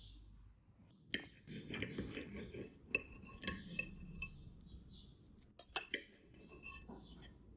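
Cutlery and dishes clinking and scraping in kitchen handling, with sharp clinks about a second in, around three seconds and again near five and a half seconds.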